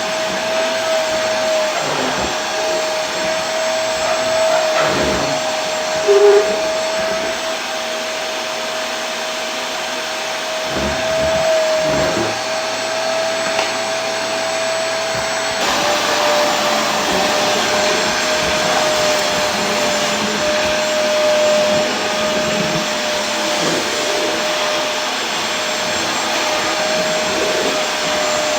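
Vacuum cleaner running steadily: a constant motor whine over the rushing hiss of its airflow. A brief, louder short tone comes about six seconds in.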